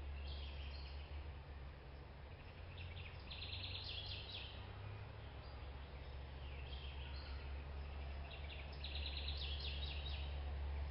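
Birds chirping in short, rapid high trills that come and go several times, over a steady low hum.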